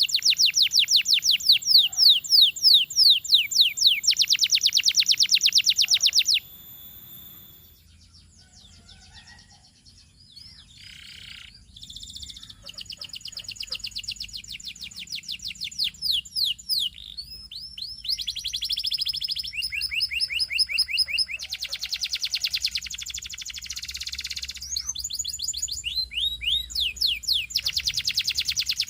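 Canary singing in fast trills of rapidly repeated high notes. The trills are loud for about the first six seconds, then thin out into softer, broken phrases, then build back into trills.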